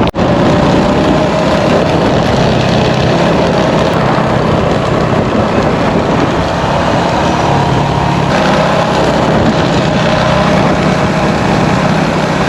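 Motorcycle engine running at a steady cruising pace while riding, with wind rushing over the microphone in strong wind. The engine note shifts slightly about eight seconds in.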